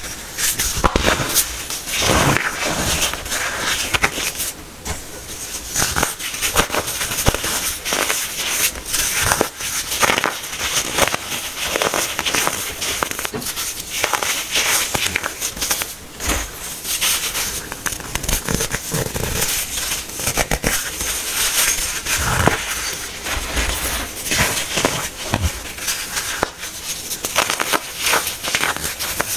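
Hard-packed baking soda being crushed, giving a dense, continuous crackling crunch.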